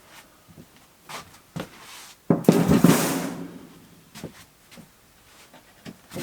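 Scattered knocks and handling noises of parts being rummaged through, with a loud clatter about two and a half seconds in.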